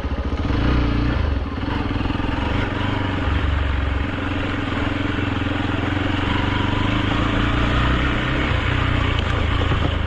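Hero Xpulse 200's single-cylinder engine running steadily as the motorcycle is ridden, its note rising a little about a second in.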